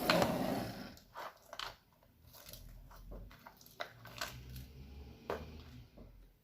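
Slime being squished and worked by hand: a loud crackly squelch in the first second, then scattered small pops and clicks.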